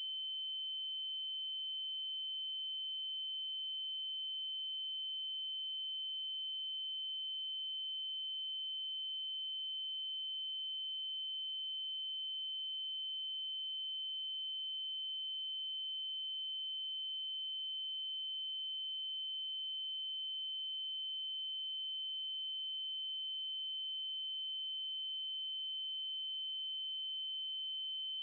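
Synthesized 3072 Hz triangle-wave tone, one steady high-pitched note held without change.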